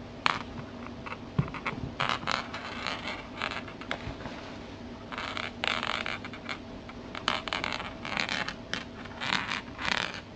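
Irregular, repeated short scraping sounds in clusters, over a low steady background hum.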